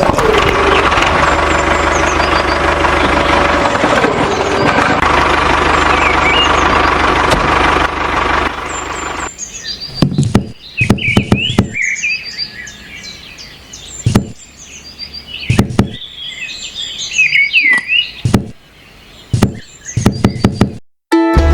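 A small motor, likely the DIY mini tractor's, runs steadily for about nine seconds, its pitch dipping twice. Then it stops, leaving birds chirping and a series of sharp knocks.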